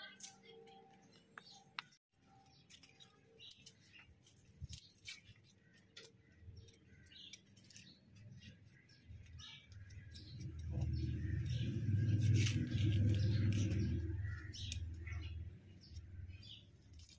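Small birds chirping over and over, with a low rumble that swells about ten seconds in, is loudest for a few seconds, and fades out.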